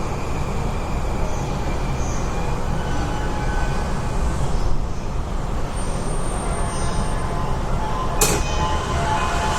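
JR East E235 series Yamanote Line train standing at a station platform: a steady low rumble throughout, with one sharp, sudden sound about eight seconds in.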